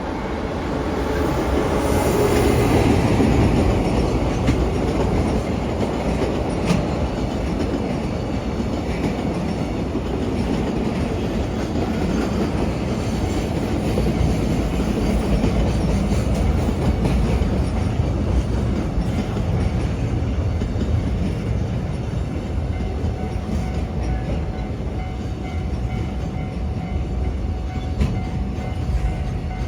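Long freight train running past close by, its wheels rumbling steadily on the rails. It is loudest about three seconds in and keeps going without a break.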